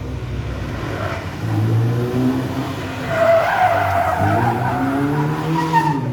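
Rally car engine revving up and down while the car slides, with tyres skidding and squealing on tarmac from about three seconds in.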